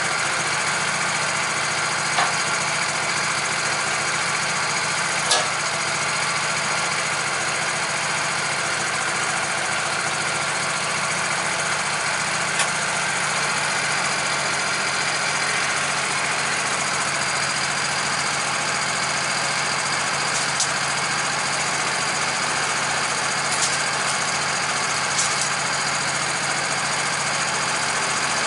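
A machine motor running steadily with an even hum, with a few faint clicks along the way.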